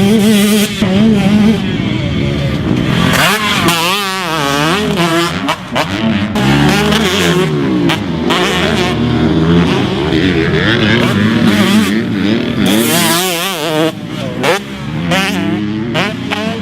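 Husqvarna TC125 two-stroke motocross bike engine revving hard, its pitch rising and falling over and over as the throttle is opened and closed.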